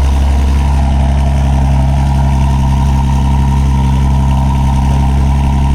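A car engine running loudly at a steady speed, holding one unchanging pitch.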